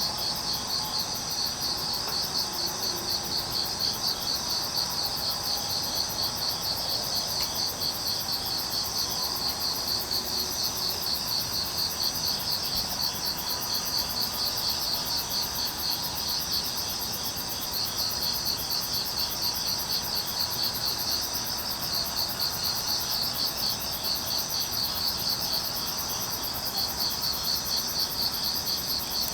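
A chorus of crickets chirping steadily in fast, even pulses of high trills.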